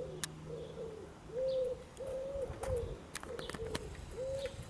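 Container freight train rolling past, its wheels giving scattered sharp clicks over the rail joints under a steady low rumble. Over it runs an even series of low cooing notes, about two a second.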